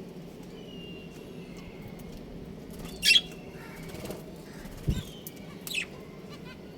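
Budgerigars chirping: faint short chirps, then two loud sharp calls, about three seconds in and near the end. A short low thump comes between them.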